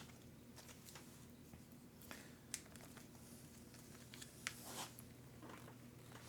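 Faint handling noises of small parts and packaging: a few light clicks and short rustles, the clearest about two and a half seconds in and again between four and five seconds, over a steady low hum.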